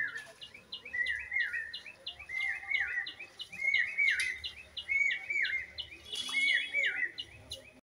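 A bird singing repeatedly: steady short high notes with pairs of lower, arched, down-slurred notes, the phrase coming round about once a second.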